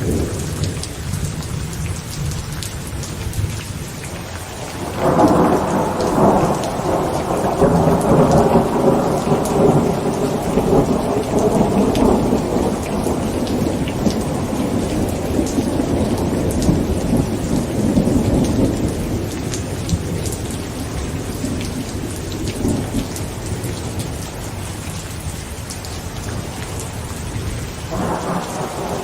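Heavy rain drumming on a tent through a thunderstorm. A low rumble at the start gives way about five seconds in to a loud peal of thunder that rolls on and slowly fades, and another rumble begins near the end.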